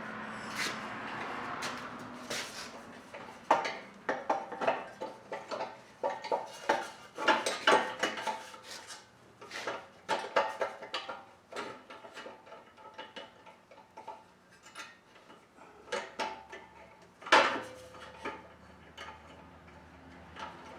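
Metal parts clinking and clanking as a lawn tractor muffler and its self-tapping bolts are handled and fitted to the engine by hand. It is a scattered run of sharp knocks and clicks, with one louder knock near the end.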